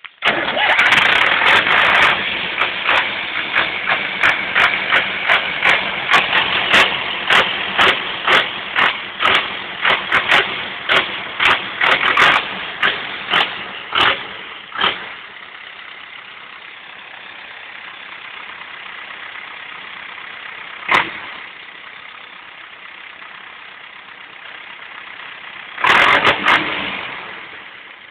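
Zetor 10145 tractor's turbocharged four-cylinder diesel engine running, with turbo whistle. Through the first half the sound pulses in sharp loud peaks about twice a second, then settles to a steadier, quieter run with two short loud bursts later on, and fades near the end.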